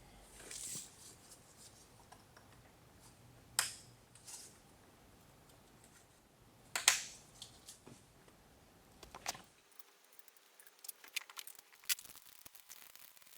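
Scattered sharp metallic clinks and taps of tools or engine parts being handled, the loudest about seven seconds in, then a run of lighter clicks; a faint low hum stops about halfway through.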